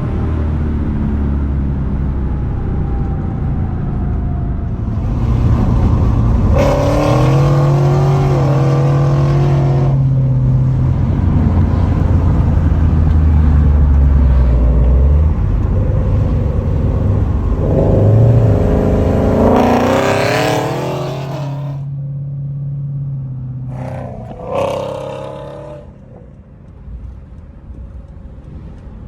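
Lexus IS F's 5.0-litre 2UR-GSE V8 breathing through long-tube headers and a Hayward & Scott X-pipe exhaust, pulled hard at wide-open throttle twice, its pitch rising through each pull. The revs then drop away and one short throttle blip follows near the end.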